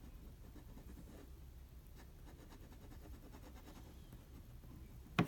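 Faint scratching of a drawing tool stroking across paper, with one sharp knock about five seconds in.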